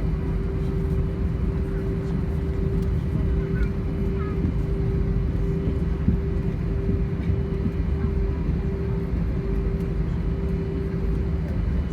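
Airbus A320 cabin noise: the engines' steady low rumble with a constant drone, holding level with no spool-up.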